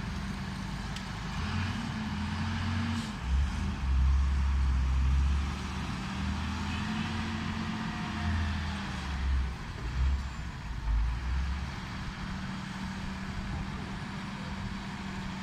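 Hino truck's diesel engine running under way, its pitch rising and falling with the throttle, with heavier low rumbling in spells about three to five seconds in and again around nine to eleven seconds.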